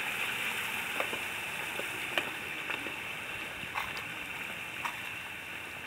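Steady hiss of running water from a pondless waterfall, in rain, with a few light drip ticks scattered through it.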